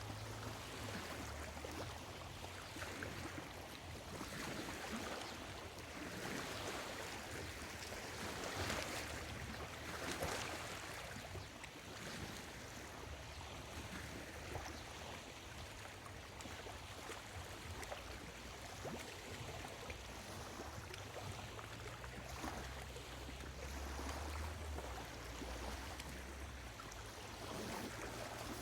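Small lake waves lapping on the shore, washing in softly every couple of seconds over a low steady rumble.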